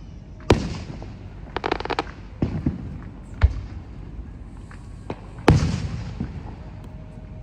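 Fireworks going off: several sharp bangs, each with an echoing tail, the loudest two about half a second and five and a half seconds in, and a quick run of crackling pops about a second and a half in.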